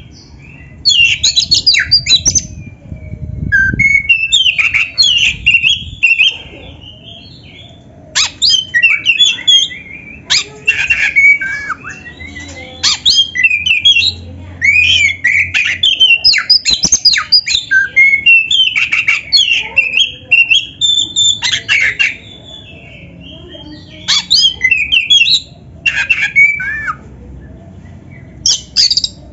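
Black-breasted Oriental magpie-robin singing loud, varied phrases of whistles and harsh notes in bursts of a second or two with short pauses between them; its song is filled with canary-like phrases.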